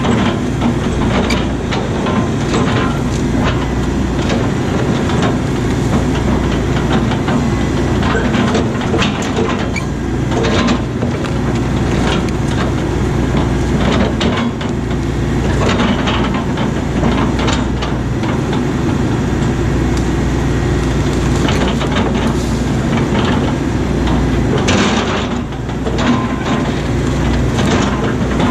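John Deere 135 excavator's diesel engine running steadily under working load, with scattered knocks and clatter from the machine at work.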